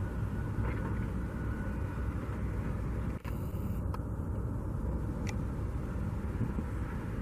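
Steady outdoor rumble of distant road traffic, strongest at the low end, with a brief dip about three seconds in and a couple of faint clicks.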